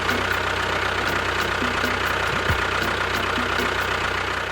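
Small engine idling steadily with an even, knocking beat.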